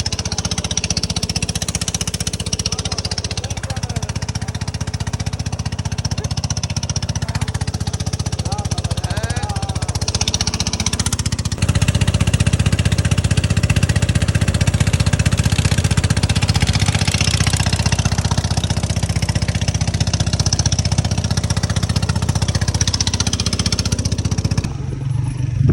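Vehicle engine running steadily under way, a low, rapidly pulsing drone that steps abruptly louder about halfway through.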